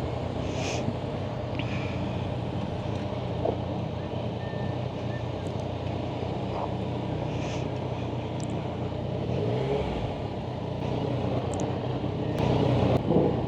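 Yamaha Tracer 900's three-cylinder engine running at low revs, steady, with a brief rise in revs about ten seconds in.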